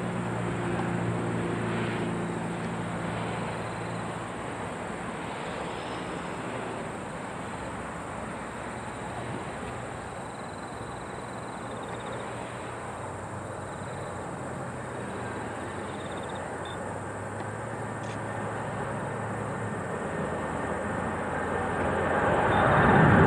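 Jet engines of a Boeing 777-200ER at a distance during its takeoff, a steady rushing noise with a low hum, growing louder near the end as the aircraft comes closer.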